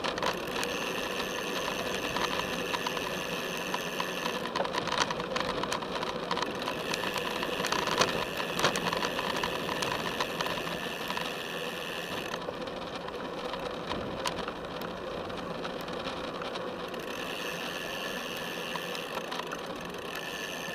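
A 2011 Felt F75 road bike rolling along, heard through a camera strapped to its top tube: steady tyre and road noise with frequent clicks and rattles from the bike. A steady high tone runs alongside and drops out for a few seconds past the middle.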